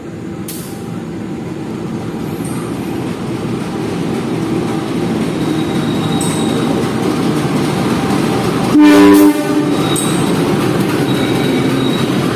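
Train approaching, its running rumble growing steadily louder, with one short, loud blast of the locomotive horn about nine seconds in and faint high-pitched wheel squeals.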